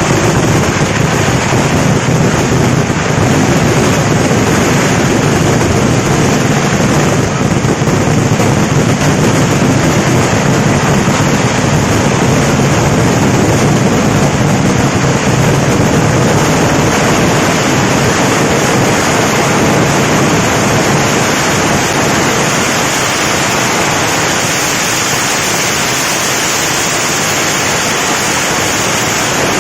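Kerala temple-festival fireworks (vedikettu) in a dense barrage, the explosions coming so fast that they merge into one loud, unbroken thundering roar.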